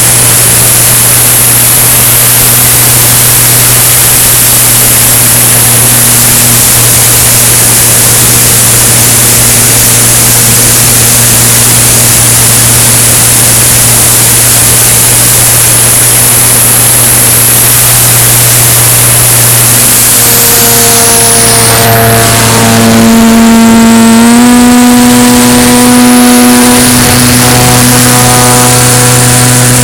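Cessna 170's engine and propeller running steadily in flight, loud, with a constant low drone and rushing noise. About two-thirds in, a set of higher tones comes in and steps up in pitch, a change in engine power.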